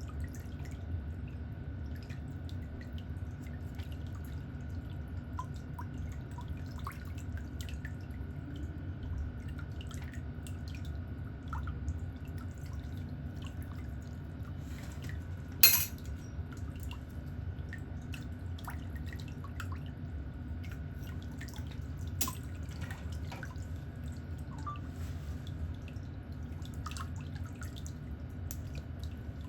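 Faint, scattered clicks and taps of pedicure tools during toenail cleaning over a steady low hum, with one sharp, louder click about halfway through.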